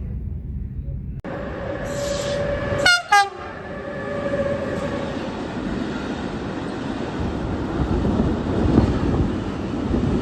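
Train horn sounding two short blasts about three seconds in, followed by the steady rumble of a train running on the rails that grows louder toward the end.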